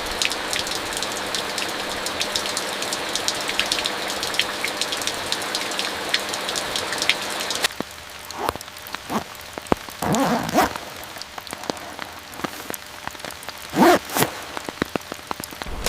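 Steady rain falling, with many small drop ticks over an even hiss; about eight seconds in it cuts off abruptly, giving way to a quieter background with scattered knocks and a couple of louder rustling handling sounds, the loudest near the end.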